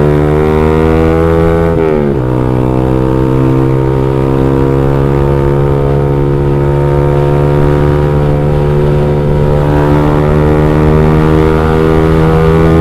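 Motorcycle with an X1 Speed Pro One aftermarket exhaust (short 15 cm fully baffled silencer, 32 mm header) running on the road with a steady, bassy exhaust note. The revs drop once about two seconds in, then hold and slowly climb. The rider calls it still mellow and puts that down to the fully baffled silencer.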